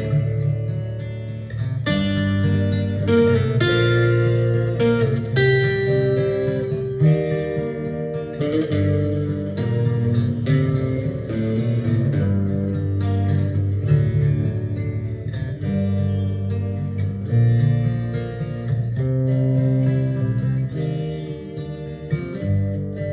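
Instrumental guitar break: plucked and strummed guitar notes over a steady bass line, with no singing.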